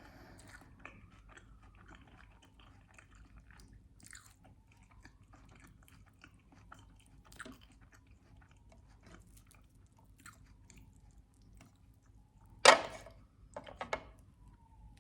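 Close-miked chewing of a sandwich with syrup: soft, scattered wet mouth clicks and crackles. Near the end comes one loud sharp bite sound, followed by a few smaller ones.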